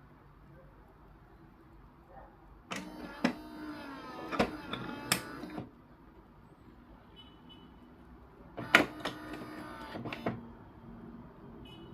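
Philips coffee machine's motor whirring in two bursts, about three seconds and then about a second and a half, with a few sharp clicks.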